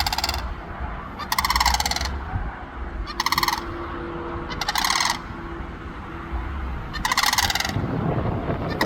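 Pair of sandhill cranes giving loud, rattling calls, about four calls of half a second each, one every second and a half to two seconds.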